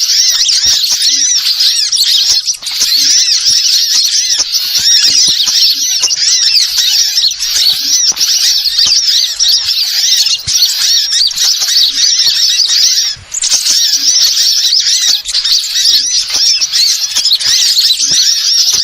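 Small birds twittering in a dense, continuous high-pitched chatter of rapid chirps, played as a bird-lure call.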